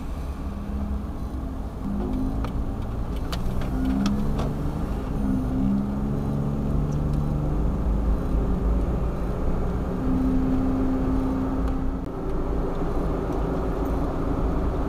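A kei van's small engine pulling away and driving on, its pitch rising and falling as it accelerates and shifts, with steady road noise under it. A few light clicks come about two to five seconds in.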